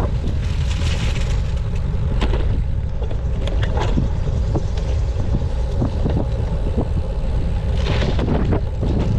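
Wind rumbling on the microphone and bicycle road noise during a ride, steady throughout, with scattered small crackles and clicks.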